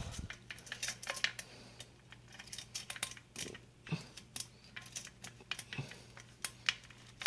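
Irregular light metallic clicks and rattles from a ceiling fan being handled as it sits on the floor, such as its pull chain and switch housing, over a steady low hum.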